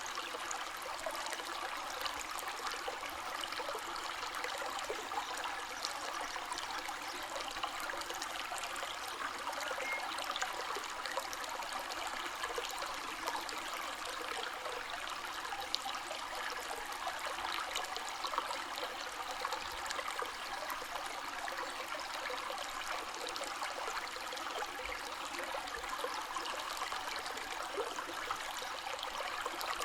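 River water flowing steadily, an even rushing with fine trickling and splashing throughout.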